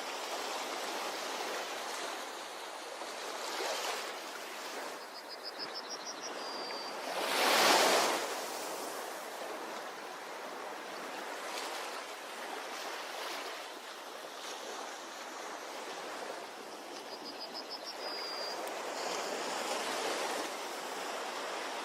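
Sea waves washing onto a beach in a steady rush, with one louder wave breaking about eight seconds in. A high chirping call, a quick run of rising notes ending on a short held note, comes twice, about 5 s and again about 17 s in.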